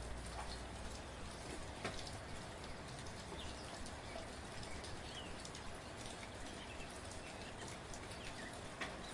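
Gentle, steady rain falling, with many individual drops ticking sharply through the even hiss.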